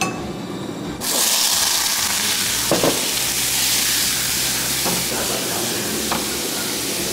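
Halved cherry tomatoes hitting hot camellia oil in a small wok: a sudden loud sizzle breaks out about a second in and keeps going steadily. A few faint clicks are heard along the way.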